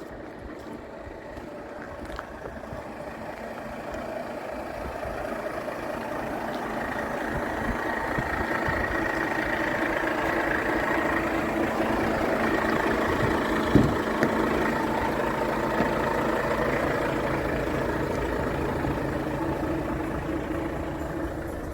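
Diesel engine of a Volvo FH tipper truck running steadily, growing louder toward the middle and slowly fading again, with one short knock about two-thirds of the way through.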